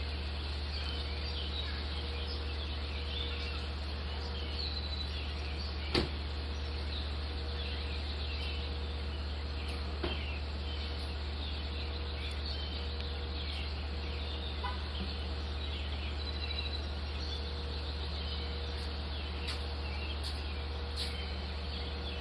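Many small birds chirping and calling, a dawn chorus of short chirps all through, over a steady low hum. There are two brief clicks, about six and ten seconds in.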